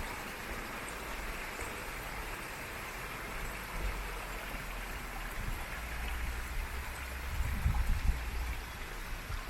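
Steady hiss of rain falling. Uneven low rumbles join it about four seconds in and are loudest near the end.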